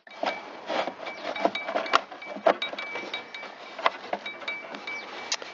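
Plastic carburetor top cover being handled and fitted back onto an Echo PB-770H backpack blower: scattered clicks and small knocks of plastic parts over rubbing and rustling.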